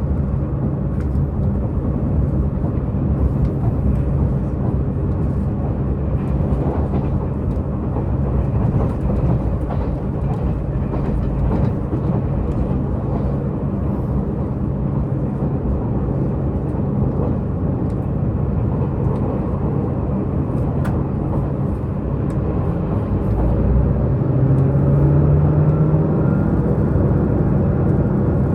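Diesel multiple-unit express train running at speed, its underfloor diesel engine droning steadily over wheel-and-rail noise, heard from inside the passenger car. About 24 seconds in the engine note rises and grows louder.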